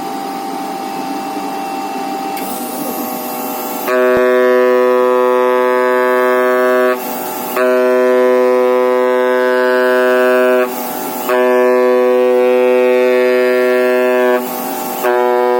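Flatbed cutting plotter at work on thermally expanded graphite gasket sheet: a steady whir at first, then about four seconds in the oscillating knife starts with a loud steady buzz. The buzz stops for about half a second three times and starts again.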